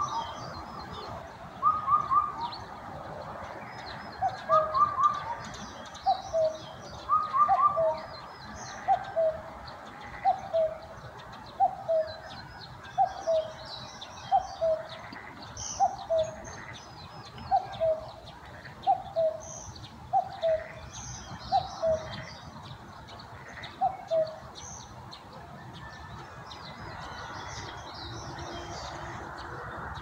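Outdoor birdsong: one bird repeats a two-note call, the second note lower, about every second and a half, stopping a little after three-quarters of the way in, after a few quick higher three-note phrases near the start. Small birds chirp thinly and high throughout.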